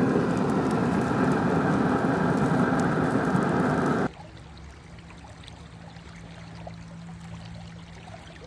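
A loud, steady rushing roar cuts off abruptly about four seconds in. It gives way to the quieter trickle and flow of river water with a faint steady low hum.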